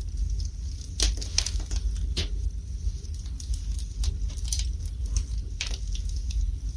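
Wood fire burning in a fireplace, with irregular sharp crackles and pops over a low steady rumble.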